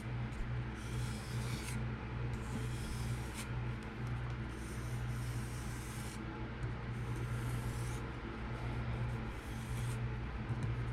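Kunwu Chad's PM60 steel knife blade being stropped on a leather strop loaded with 1-micron diamond compound: a series of soft hissing strokes of steel drawn across leather, each about a second long. A steady low hum runs underneath.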